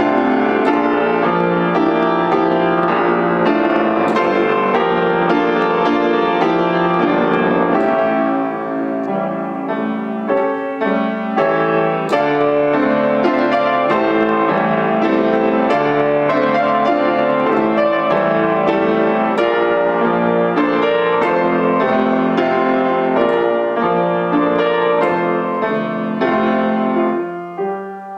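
Solo piano playing a busy passage of many quick struck notes over a held bass, growing quieter near the end.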